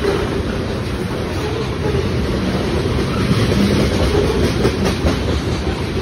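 Freight train of tank cars rolling past at close range: steady wheel-on-rail noise, with a few clacks over rail joints a little past the middle.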